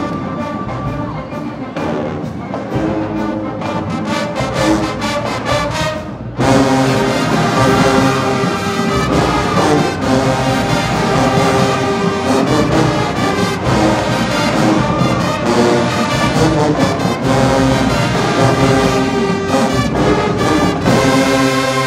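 High school marching band playing, brass and percussion, with a short break about six seconds in followed by a louder full-band entrance.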